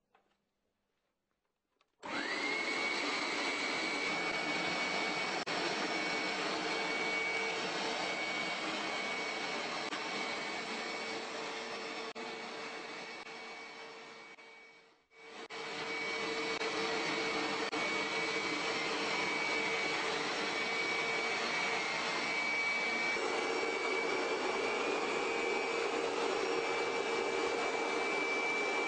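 Hoover vacuum cleaner switched on about two seconds in, its motor spinning up and then running steadily with a high whine over a broad rush of air. About halfway through the sound sinks away to almost nothing, then comes straight back up and runs steadily again.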